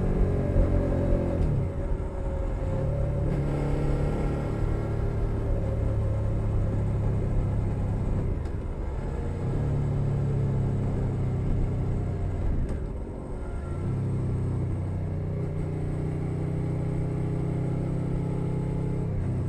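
2021 Suzuki SV 650's 645 cc V-twin running through a LeoVince Nero aftermarket exhaust under way. The engine note holds steady, dropping off briefly and picking up again three times.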